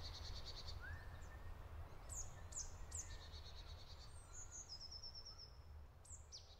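Faint songbirds chirping: several quick falling chirps and short rapid trills, over a low steady rumble of outdoor background noise.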